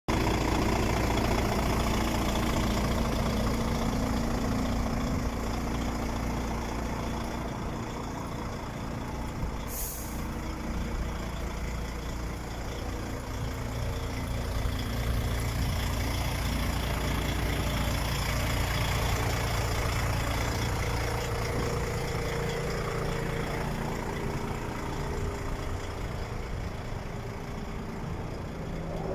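DAF XF 105.410 truck's diesel engine running steadily, with a brief hiss of released air about ten seconds in.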